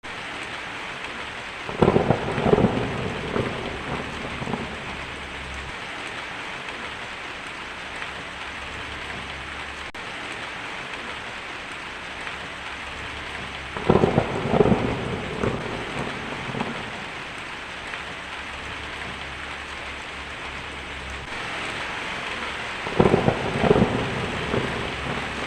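Steady rain hissing down in a thunderstorm, with three rolls of thunder: one about two seconds in, one midway and one near the end, each breaking into several cracks and rumbles.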